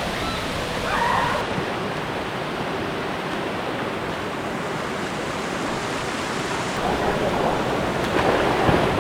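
Waterfall: a steady, full rush of water falling into a pool.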